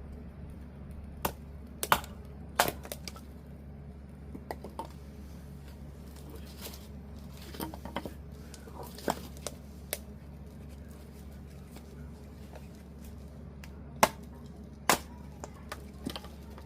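Kindling being split: sharp wooden cracks and knocks at irregular intervals, the loudest pairs near the start and near the end, over a steady low hum.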